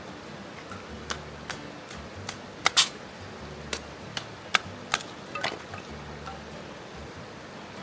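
Wood campfire crackling: irregular sharp pops and snaps, the loudest pair about three seconds in.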